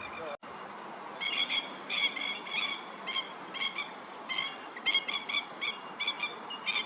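Short, high-pitched animal calls repeated about twice a second over a steady hiss, starting after a sudden cut about half a second in.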